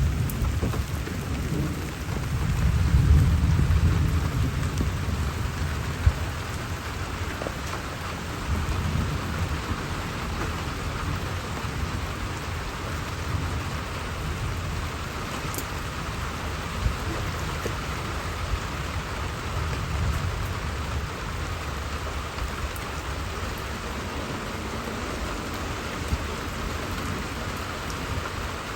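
Steady rain falling, with a low rumble of thunder that swells a few seconds in and then fades under the rain.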